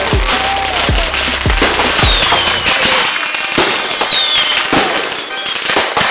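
Backyard consumer fireworks going off in quick succession: a dense run of crackles and bangs with no pause.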